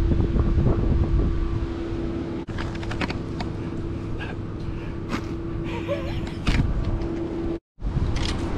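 Wind rumbling on the microphone over a steady low hum, with a brief total dropout near the end.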